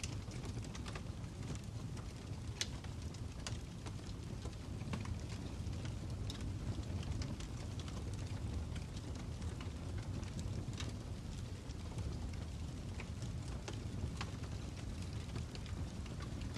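Fire crackling: irregular sharp pops and snaps scattered over a steady low rumble.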